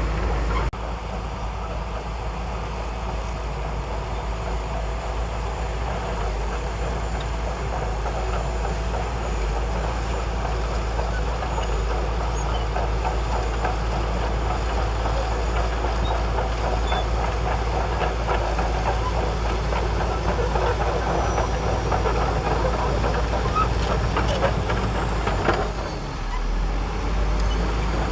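Heavy diesel engine of a Shantui crawler bulldozer working, a steady low rumble with a dense rattle over it and a brief drop in level near the end.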